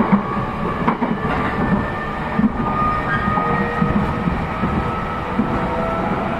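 Inside a JR East E233 series 0 electric train running between stations: a steady rumble of wheels on rail, with a few clacks over rail joints in the first few seconds and faint high tones above the rumble.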